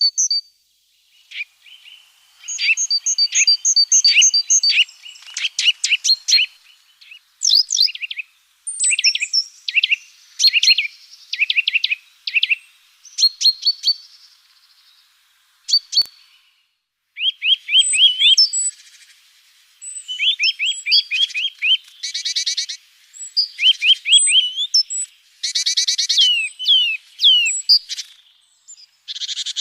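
Small songbirds chirping and singing: quick series of short, sharp calls and repeated song phrases, broken by short pauses.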